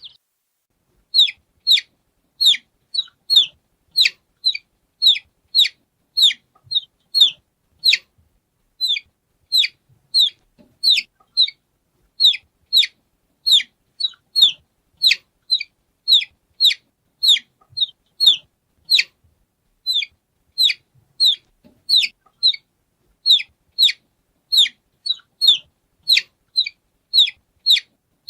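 Baby chick peeping: a steady run of short, high peeps, each sliding down in pitch, about two a second.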